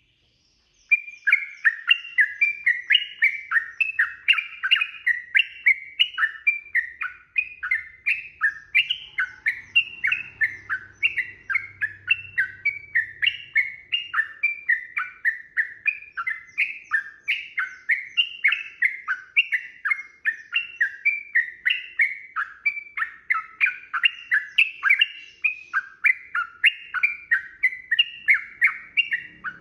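Sooty-headed bulbul (trucukan) singing a long unbroken stream of short warbled phrases, about two to three a second, beginning about a second in.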